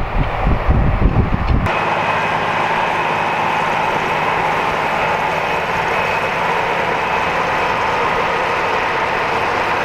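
Wind buffeting the microphone at first, then a sudden switch, under two seconds in, to a large AGCO farm tractor running steadily under load while pulling a plow, an even engine drone with a steady whine in it.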